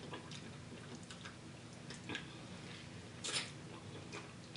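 Close-up eating sounds: wet chewing and mouth smacks, with fingers squishing through a bowl of efo riro vegetable soup and chewy kpomo (cow skin). A few sharper smacks stand out, the loudest about three seconds in.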